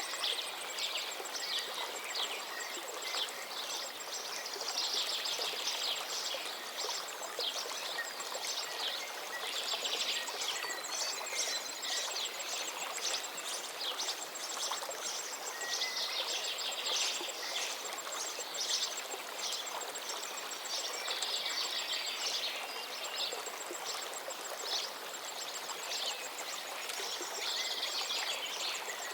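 Many birds singing and calling over the steady rush of a flowing river, with a high, fast ticking trill coming and going.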